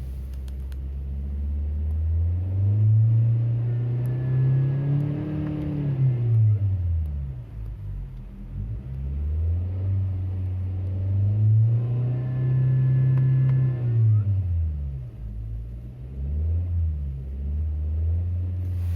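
Chery Tiggo 7 Pro engine revved up twice to high rpm and let fall back, with a short blip near the end. Near the top of each rev a thin, high steady tone comes in over the engine note: the extraneous noise that appears above about 3500 rpm.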